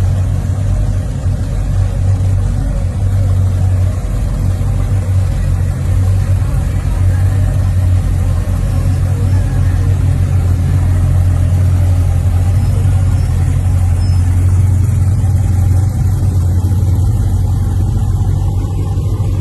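Car engine and road noise, a steady low drone from a car driving along.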